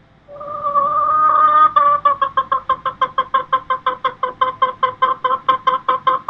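Chicken clucking: a held opening note, then an even run of rapid clucks, about five a second.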